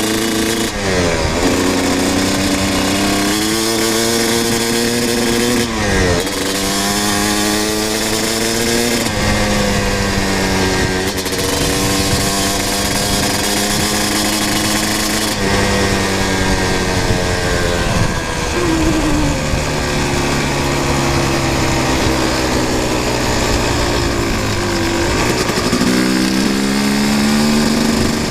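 Kawasaki KX250 two-stroke dirt bike accelerating hard through the gears. The engine pitch climbs with the revs, then drops sharply at each upshift, about half a dozen times.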